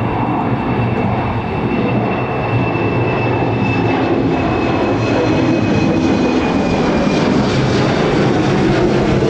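Jet airliner engines running loud and steady, with a deep rumble and a thin high whine that fades out about seven seconds in, growing slightly louder overall.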